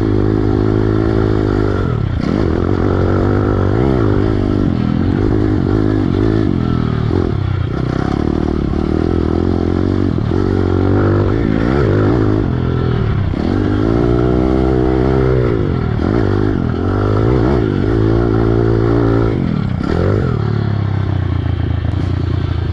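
Piranha 140 pit bike's small single-cylinder four-stroke engine being ridden hard. The revs climb and drop again and again, every second or two, as the throttle is opened and closed.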